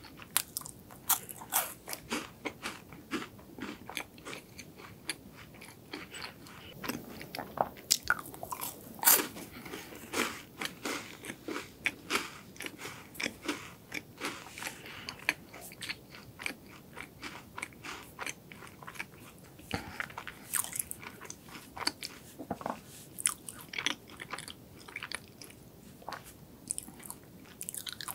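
Close-miked crunching and chewing of chocolate-coated wafers: many irregular, crisp crunches as the wafer layers break between the teeth, some sharper bites standing out among steady chewing.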